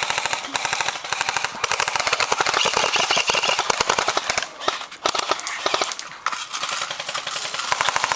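Airsoft rifle firing full-auto: long strings of rapid, evenly spaced shots, with short breaks around the middle and a loud burst again near the end.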